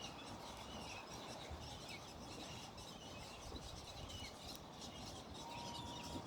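Faint outdoor ambience of scattered birds chirping, with a low rumble underneath and a single steady whistle-like tone near the end.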